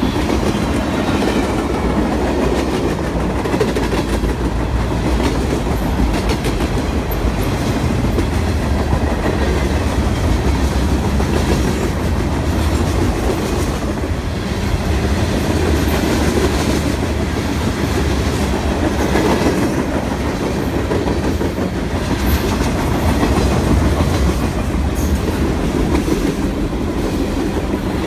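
Freight cars of a mixed train (tank cars, boxcars, an autorack) rolling steadily past close by: a continuous rumble of steel wheels on rail with a stream of clicks from the wheels passing over the rail joints.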